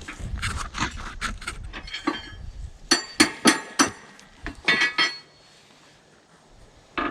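Loose metal hardware and tools clinking: a run of sharp metallic clinks, some ringing, over the first five seconds, then a short pause and more clinks near the end.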